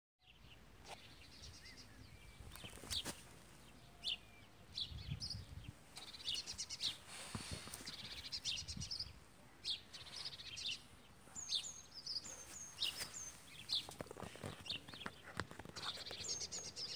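Birds chirping and singing, with runs of short, high, repeated chirps. Scattered sharp clicks and knocks sound over them.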